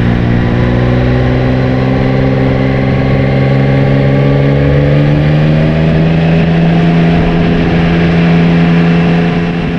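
2023 Yamaha Tracer 9's 890 cc inline-three engine pulling steadily in gear on a climb. The engine note rises slowly over the first half and then holds level.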